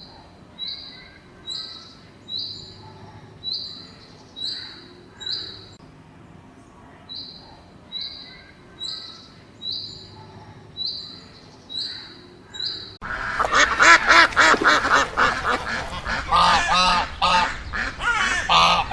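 A bird's short high-pitched call, repeated about once a second; about two-thirds of the way in, a much louder flock of birds starts calling over one another.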